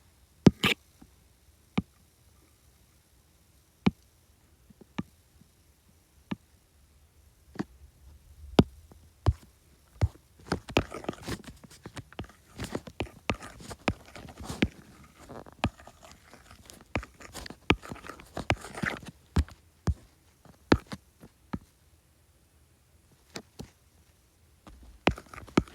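Sharp taps and clicks of hands working a drawing device while animation frames are redrawn. A few spaced clicks come first; from about eight seconds in they turn into quick, irregular tapping with some scratchy scraping, then thin out again near the end.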